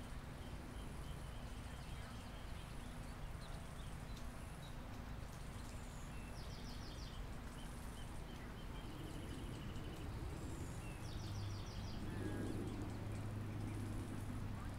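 Spring park ambience: birds calling, with short high chirps about once a second and two quick trills, over a steady low rumble. A low hum swells near the end.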